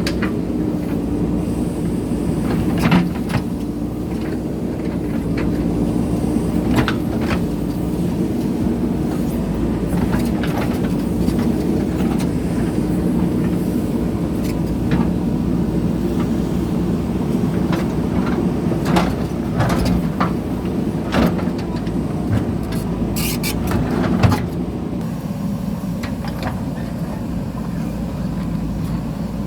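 JCB backhoe loader's diesel engine running steadily under load, with scattered knocks and clanks from the digging. About 25 seconds in the engine drops to a lower, quieter note.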